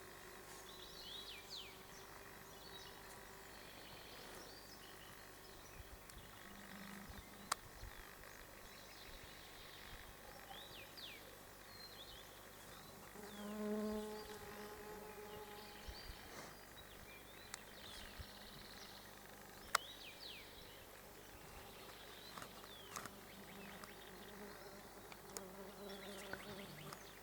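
A flying insect buzzing close by in passes, loudest about halfway through, while small birds chirp faintly and repeatedly; a few sharp clicks.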